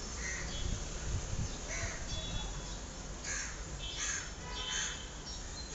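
Harsh bird calls repeated about every second, over the crinkling rustle of a large black plastic sheet being gathered up and folded.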